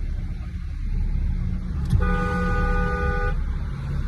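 A car horn sounds once, a steady blast held for just over a second about halfway in, over the low rumble of road and engine noise. A sharp click comes just before it.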